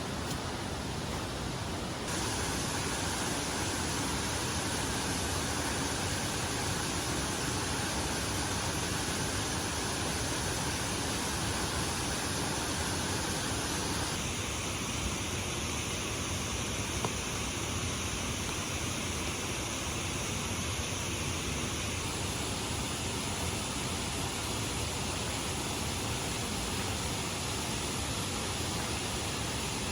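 Steady rush of falling water from a waterfall. Its tone shifts abruptly about two seconds in and again about halfway through.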